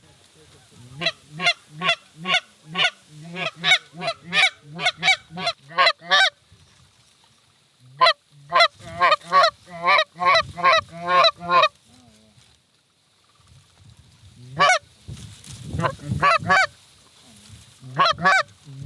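Canada goose honks and clucks coming in four quick runs of rapid calls, with short pauses between them.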